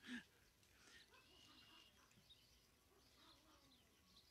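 Near silence outdoors, with faint bird chirps and one brief soft sound right at the start.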